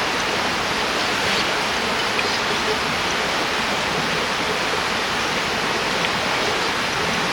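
A river flowing steadily, an even rush of water.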